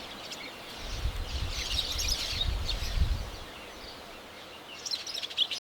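Forest ambience with small birds chirping, the calls thickest from about one to three and a half seconds in, over a low rumble.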